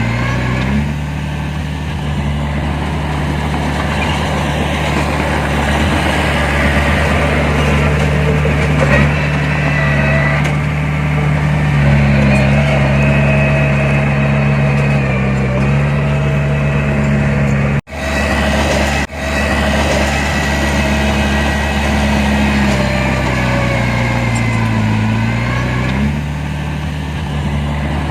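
Heavy diesel engine of earthmoving machinery running, its speed rising and falling several times. The sound cuts out twice, briefly, about two-thirds of the way in.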